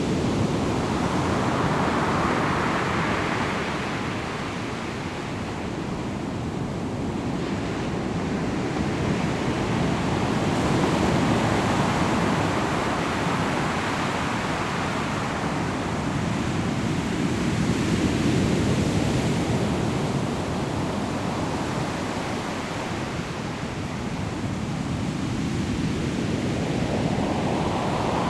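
Ocean waves breaking on a pebble shore: continuous surf that swells and ebbs in slow surges several seconds apart.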